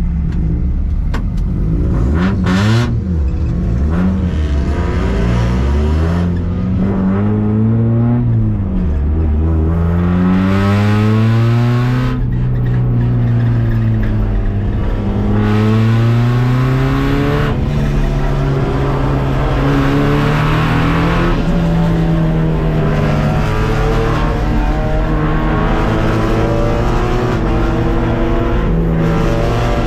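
Race car engine heard from inside the cabin, accelerating through the gears. The pitch climbs, drops at each upshift and climbs again several times, then runs steadier at speed.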